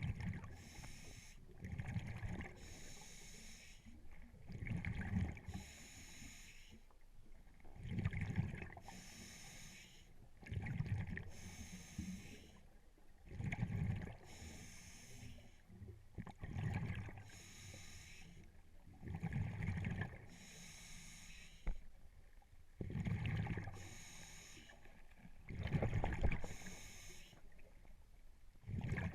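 Scuba diver breathing through a regulator underwater, about ten regular breaths roughly three seconds apart. Each breath alternates a hiss from the demand valve on the inhale with a low rumble of exhaled bubbles.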